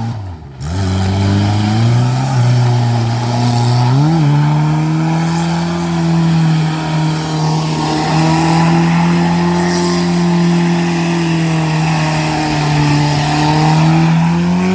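Suzuki Escudo's engine revving hard during skids in mud. The revs dip briefly at the start, climb, jump up about four seconds in, then hold high and steady for about ten seconds, rising again near the end.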